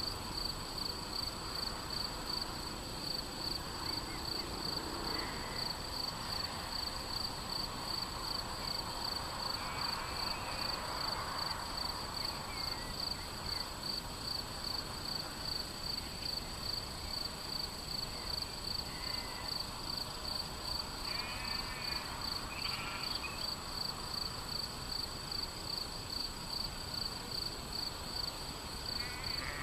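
Insect trilling steadily in a fast, even, high-pitched pulse, with short bird chirps a few times over a low outdoor hush.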